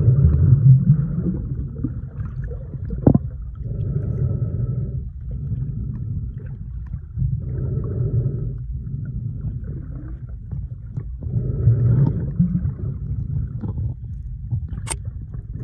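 Sea heard from under the water: a muffled low rumble that swells and eases about every four seconds as the waves move, with two sharp clicks near the end.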